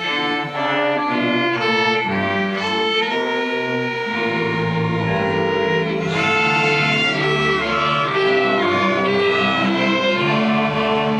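A string orchestra of violins, cellos and basses playing a piece together, with many overlapping lines moving note to note.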